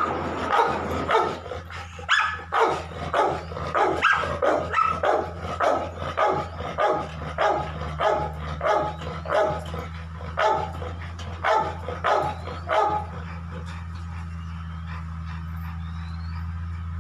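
A dog barking over and over, about two barks a second, stopping about thirteen seconds in, over a steady low hum.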